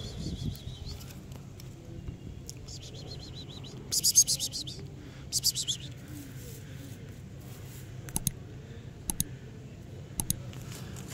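Birds chirping in short rapid bursts, the loudest about four seconds in, over a low steady hum. A few sharp clicks follow later on.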